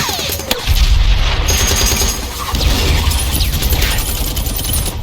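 Film battle soundtrack: dense gunfire from World War II-era small arms, machine guns among them, with a short falling whine at the start and a heavy boom about a second in that rumbles on under the shooting.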